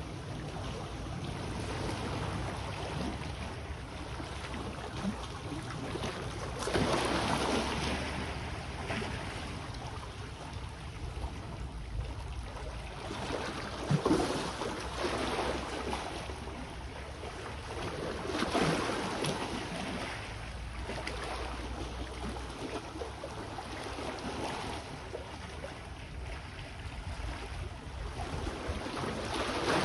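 Small sea waves washing in and receding, swelling a few times over a low steady rumble.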